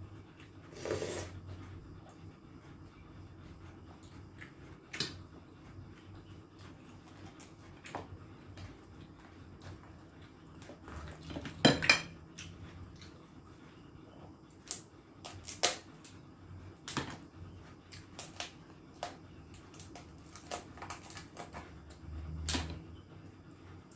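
Scattered clinks and taps of cutlery and hands against plates and dishes during a meal, with a louder clatter about halfway through.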